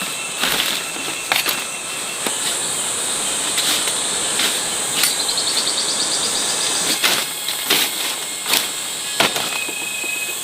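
Insects buzzing in a steady high drone, with a short fast ticking trill about five seconds in, and scattered sharp clicks and knocks throughout.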